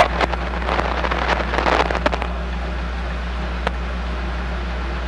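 Rapid crackling and clicking for about two seconds, then a steady low hum with noise inside a police squad car, broken by a single click a little later.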